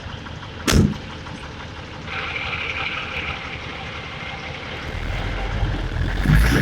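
Heavy truck engine running, with one sharp, loud clank a little under a second in and the engine growing louder near the end.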